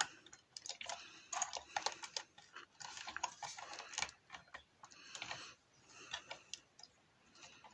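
Plastic LEGO pieces of a built model clicking and rattling faintly as it is handled, in scattered small clicks with short bursts of rustle.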